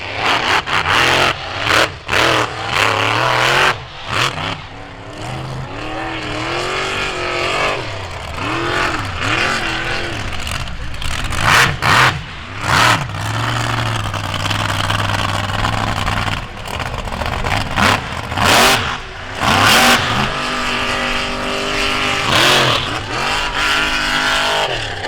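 Big truck engines revving hard, their pitch rising and falling over and over as the trucks throttle through a mud track, with several brief loud bursts.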